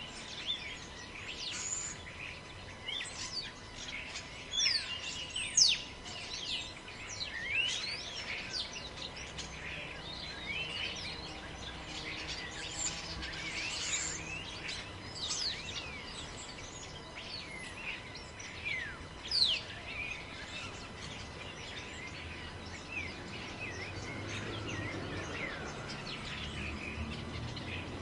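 A forest chorus of several small birds chirping and calling in quick, sharp notes that sweep up and down, over a low rush of wind in the trees that swells a little near the end.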